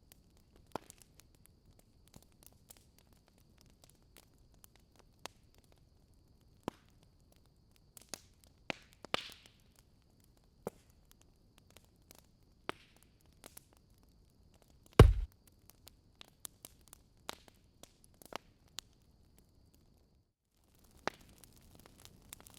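Wood fire crackling in a fireplace: scattered sharp pops and snaps, with one much louder low thump about two-thirds of the way through.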